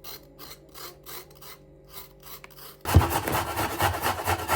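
A carrot being grated on a metal grater: rasping strokes about three a second, becoming louder and denser from about three seconds in.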